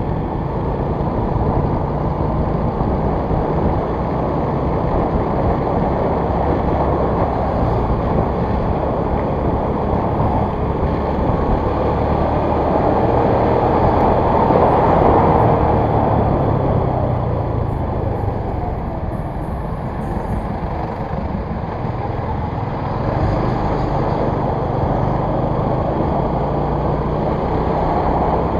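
A moving motor vehicle's engine and road noise, steady throughout and swelling briefly about halfway through.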